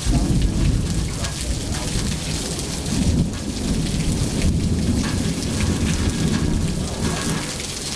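Thunder over steady heavy rain: a sudden loud crack that rolls into a long low rumble, swelling again about three seconds in and easing near the end.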